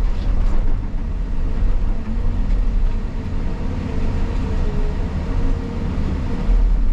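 Caterpillar 323 excavator's diesel engine running steadily as a low rumble, with a faint wavering whine over it.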